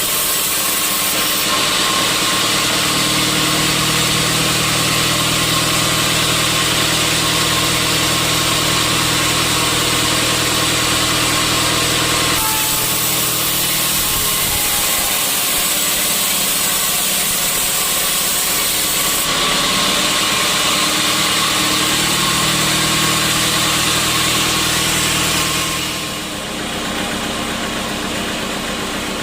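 Sawmill saw machinery running: a steady motor hum under a loud hiss. The pitch and hiss shift abruptly three or four times, and it drops a little in level near the end.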